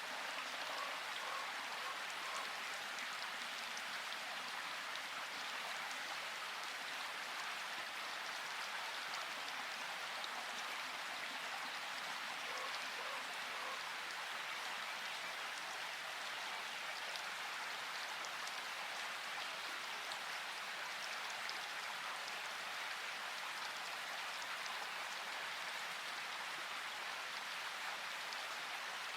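Steady rain falling, an even hiss of drops pattering on surfaces, with no thunder.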